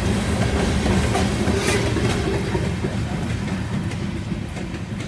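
Covered hopper cars of a freight train rolling past on steel wheels: a continuous rumble of wheels on rail with occasional clicks, growing fainter as the last cars move away.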